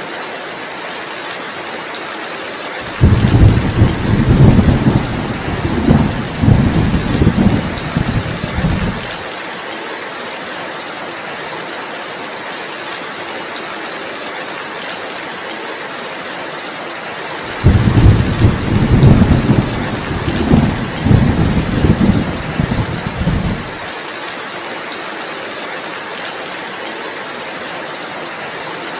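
Steady heavy rain with two loud rolls of thunder, each about six seconds long. The first begins suddenly about three seconds in, the second just past halfway, and each stops sharply.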